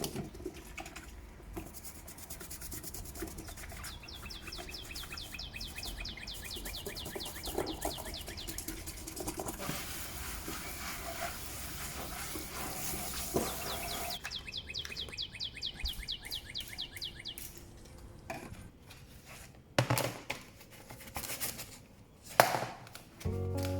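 A bird's fast, rattling trill, heard twice for several seconds each, with a hissing, rustling noise between the two trills and a few knocks near the end.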